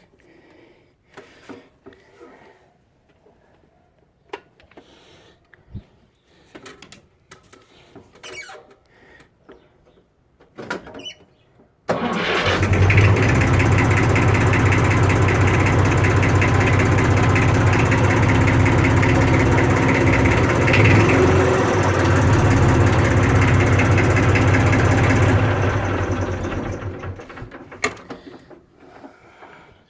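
Fordson Super Dexta tractor's three-cylinder diesel engine starting suddenly after about twelve seconds of faint scattered clicks and knocks. It runs steadily for about thirteen seconds, then fades out near the end.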